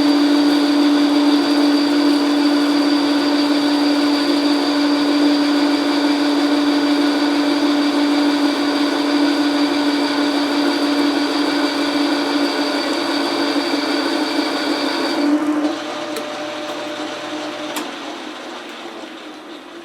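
Logan metal lathe running under a cut with a steady hum and whine; about fifteen seconds in the cut ends and the machine winds down, fading away.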